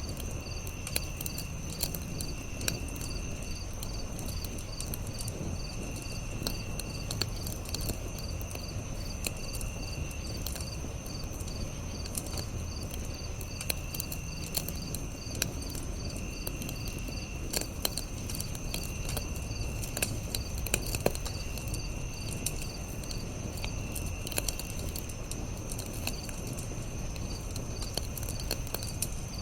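Campfire crackling with scattered sharp pops and a low rumble, under a steady chorus of crickets chirping; a lower-pitched trill comes and goes every few seconds.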